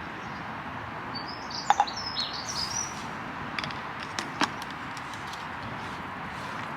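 A bird chirping briefly in a short run of quick, high, gliding notes over steady background hiss. Two sharp clicks about two seconds in are the loudest sounds, and a couple more follow a little over four seconds in.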